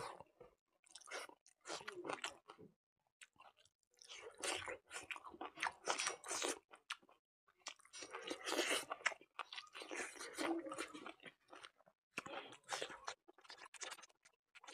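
A person chewing a mouthful of buffalo innards curry and rice, in irregular bursts with short pauses; some bites crunch.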